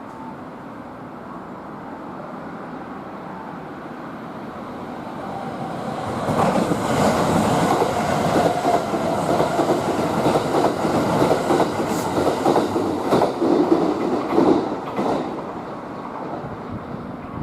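Kintetsu limited express electric train passing at speed. The rumble builds, then a rapid clickety-clack of wheels over rail joints runs for about ten seconds before the sound fades away.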